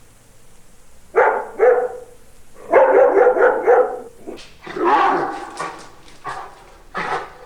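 Dog barking: two single barks, then a quick run of about five barks, a longer bark, and a few more scattered barks.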